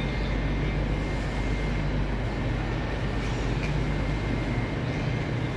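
Steady low hum from a stationary high-speed electric train standing at the platform, with a faint thin high tone over it and a general station hubbub with a few faint ticks.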